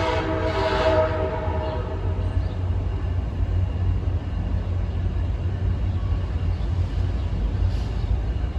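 A train horn sounds a chord for about two seconds at the start, then a train's steady low rumble carries on.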